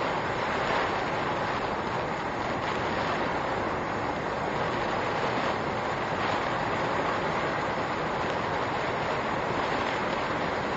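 Steady rushing noise of typhoon wind and rain heard from inside a car through its dashcam microphone, with no distinct events.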